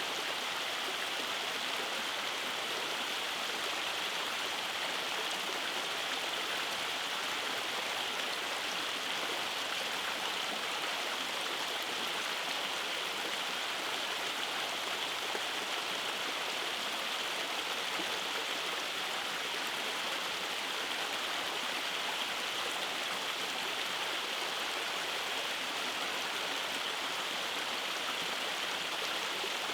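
Rainforest stream rushing over cascades and small waterfalls, a steady, unbroken hiss of flowing water.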